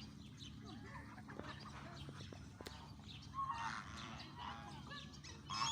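Canada geese honking, a few scattered calls at first, then a burst of honks about three and a half seconds in and another starting near the end.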